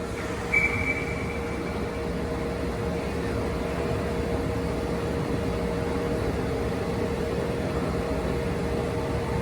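Steady ice-rink background noise with a constant hum throughout, and a short high tone lasting about a second and a half, starting about half a second in.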